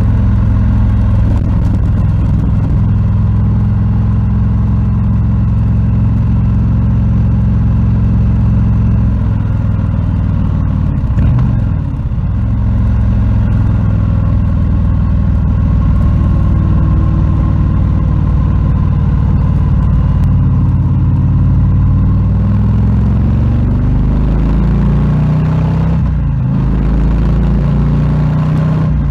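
Harley-Davidson Low Rider S (FXLRS) with its Milwaukee-Eight 117 V-twin running loud and steady. The engine pitch briefly dips about twelve seconds in, then rises and falls again a few seconds before the end.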